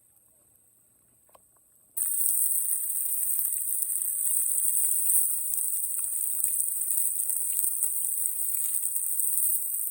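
Steak searing in a cast-iron pan: a steady sizzle full of crackles, starting suddenly about two seconds in after near silence.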